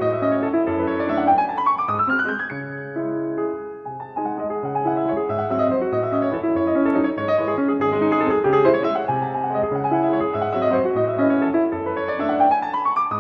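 Background piano music: a rhythmic bass line under chords, with a rising run of notes about two seconds in and another near the end.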